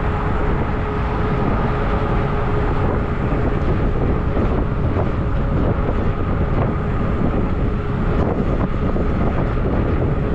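Wind rushing over the microphone on a moving Zota Zephyr fat tire e-bike, over a steady low rolling rumble, with a faint steady whine and a few light clicks.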